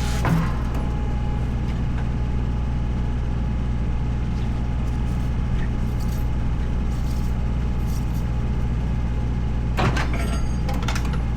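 An engine running steadily with a low, even hum. There is a short knock just after the start and a brief metallic clatter about ten seconds in, typical of tyre-changing work.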